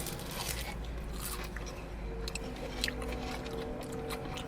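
Close-up chewing and biting of food, with wet mouth clicks, over a steady low hum.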